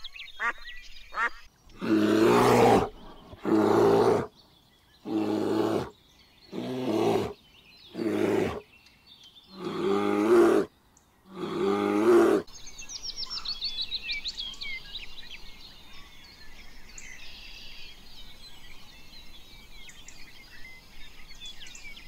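A large animal calling loudly seven times in a row, each deep-voiced call lasting about a second. About halfway through, the calls give way to birds chirping steadily in the background.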